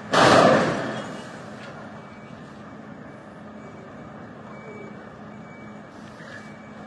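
A sudden loud bang or crash that dies away within about a second, followed by the steady running noise of vehicles on a winter road.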